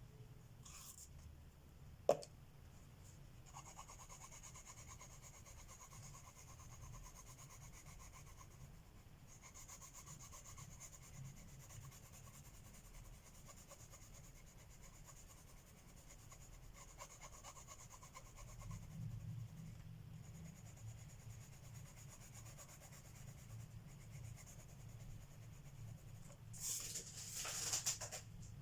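Coloured pencil shading on paper: a soft, scratchy, back-and-forth rubbing that runs in long stretches. There is a sharp tap about two seconds in, and a few louder scratches near the end.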